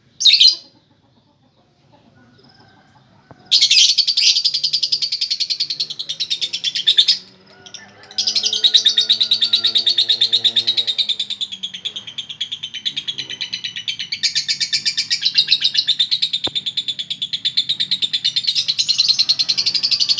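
Female lovebird singing a long, rapid, unbroken chatter, the song style Indonesian keepers call 'konslet'. A short chirp comes first, then a burst of chatter from about three and a half to seven seconds, and after a brief pause a longer run that goes on from about eight seconds.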